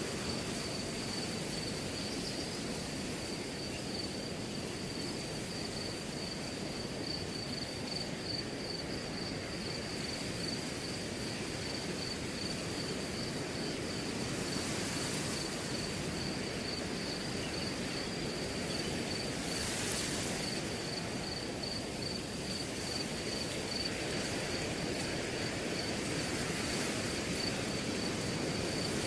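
Wind blowing steadily through grass, with a cricket chirping in a fast, even pulse of one high tone; the wind swells briefly a couple of times.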